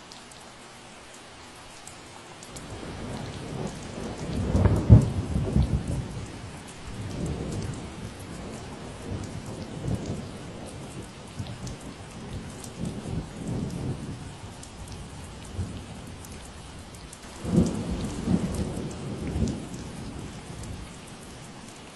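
Steady rain falling, with a long roll of thunder. The thunder begins a few seconds in, peaks loudly about five seconds in, and keeps rumbling unevenly. A second loud peak comes near the end before it fades away.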